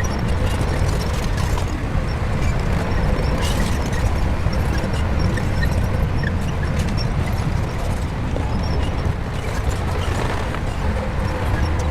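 Shantui bulldozer's diesel engine running steadily in a deep, continuous rumble, with scattered short metallic clicks and clanks over it.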